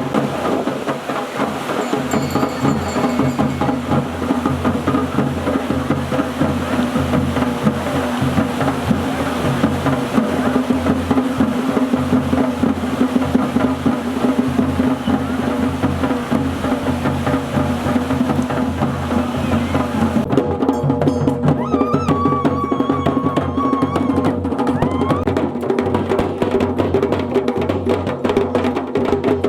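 Garhwali dhol and damau drums playing a fast, steady rhythm, with a held tone underneath.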